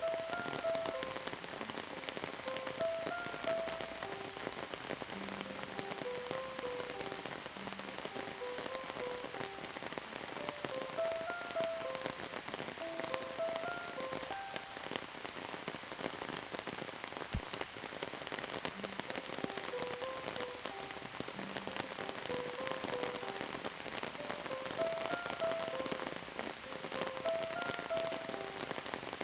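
Steady rain falling and pattering on surfaces, with a melody of short pitched notes playing over it.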